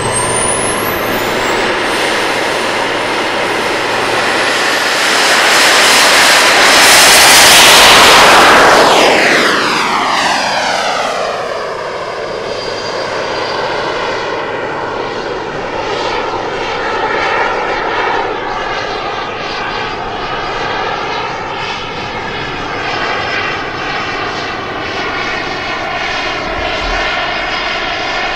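Radio-controlled model jet's turbine engine during a fast pass. The rushing hiss swells to its loudest about seven to eight seconds in, then drops away. A steadier, quieter rushing follows as the jet flies on at a distance.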